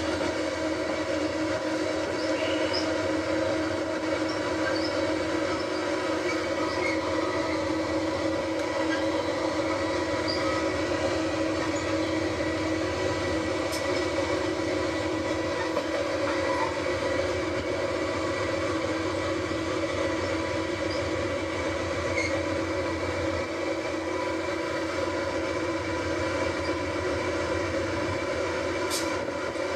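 Diesel-hauled train running slowly, its locomotive engine giving a steady, unchanging drone of several held tones, with an odd faint click.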